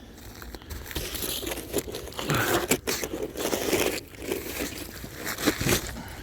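Crunching and scraping on icy, crusted snow, irregular and uneven with scattered sharp crackles, getting louder about a second in.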